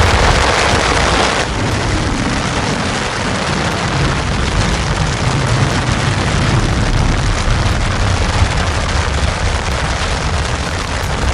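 Strong wind buffeting the microphone: a loud, steady low rumble with hiss, easing slightly about a second and a half in.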